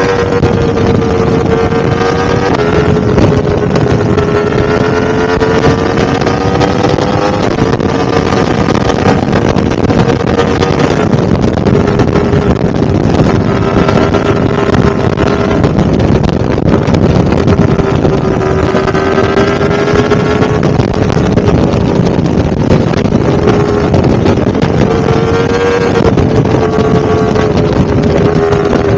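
Yamaha R1-M's inline-four engine running under way at a fairly steady pitch that drifts and steps slightly a few times, with wind rushing over it.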